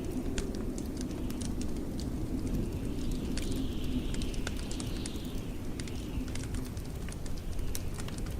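Wood fire crackling in a fireplace, with irregular sharp pops and snaps over a steady low rumble of blizzard wind. A faint high wind whistle swells and fades in the middle.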